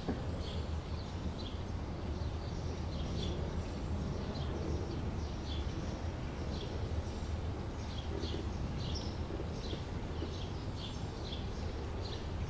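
Birds chirping, short high chirps coming a couple of times a second, over a steady low background rumble.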